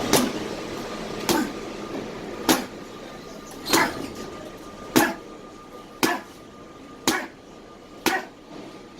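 Boxing punches landing on training gear: eight single hits about one a second, coming a little quicker near the end.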